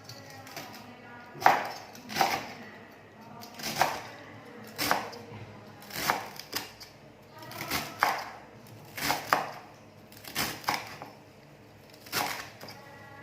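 Knife chopping on a cutting board: slow, uneven strokes, about one a second, each a sharp knock.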